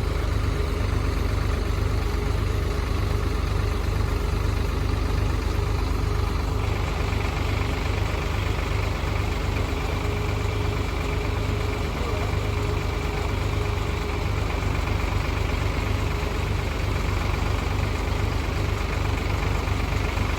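Old tractor engine running steadily with an even low pulsing beat as it works a backhoe; a faint steady high tone joins about six seconds in.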